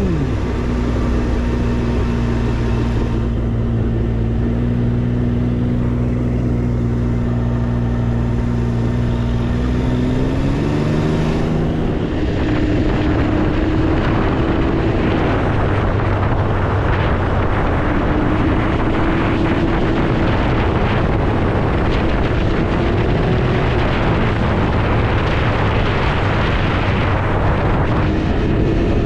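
Can-Am Ryker 900's three-cylinder engine running at a steady pitch, then rising in pitch as it accelerates about ten seconds in. From then on, heavy wind rush on the microphone covers it while the engine runs on at speed.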